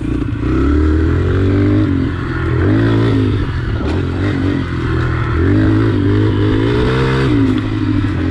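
Pit bike engine being ridden, revving up and easing off about five times as the throttle is rolled on and off.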